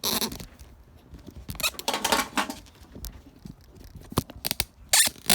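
Hand work on a throttle lever and cable: scraping and rustling near the start and again around two seconds in, then a series of sharp clicks toward the end.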